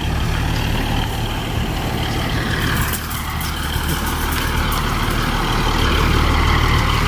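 Diesel train engine running steadily, a low, even hum with a noisy hiss over it.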